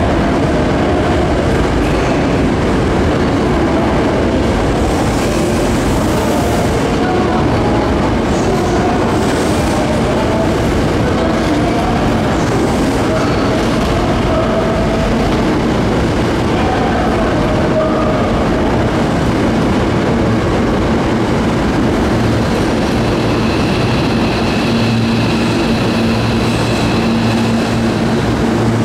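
Hankyu 1000 series electric train pulling in along the station platform, its wheels running on the rails and its motors humming as it slows to stop. A steady hum and whine come in over the last few seconds.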